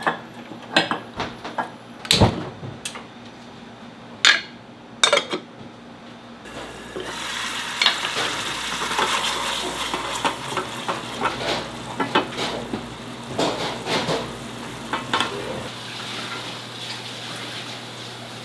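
Metal utensils knocking against a pan a few times, then food starting to sizzle in a hot pan about six seconds in, with clinks and scraping as it is stirred.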